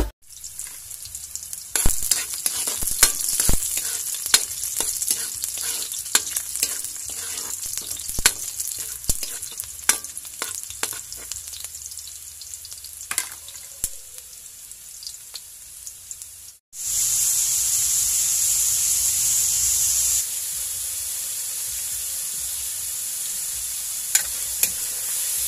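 Garlic and sliced shallots sizzling in hot oil in a wok, with a spatula repeatedly scraping and tapping the pan. About two-thirds of the way through, the sound cuts abruptly to a louder, steady sizzle as pieces of raw chicken fry in the oil.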